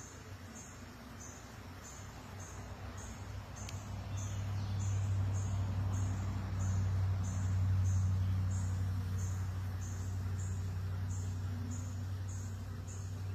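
Low, steady hum of honeybees at the hive, swelling through the middle and easing toward the end. Over it, an insect chirps in a steady rhythm of a little under two high chirps a second.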